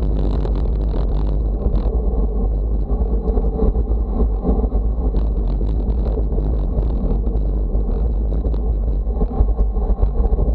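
Wind rushing over the microphone at speed, a steady, heavy low rumble with scattered crackles.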